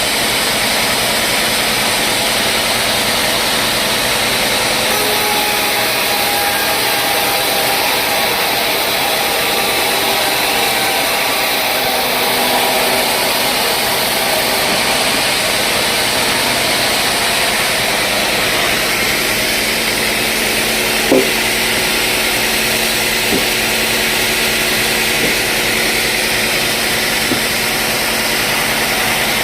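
Sawmill saw running steadily through very hard wood: a loud, continuous cutting noise with a faint steady hum under it, and a single knock about 21 seconds in.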